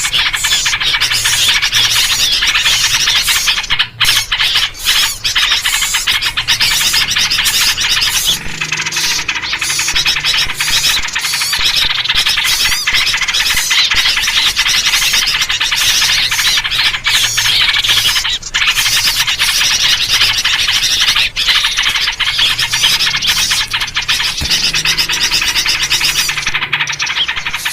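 Dense, unbroken chatter and chirping of many small birds calling at once, a bird-lure recording built around yellow-vented bulbul (trucukan) calls.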